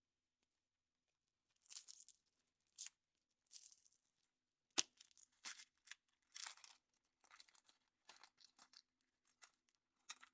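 Foil wrapper being torn and crinkled off a chocolate surprise egg in short rustling bursts, with one sharp crack about five seconds in.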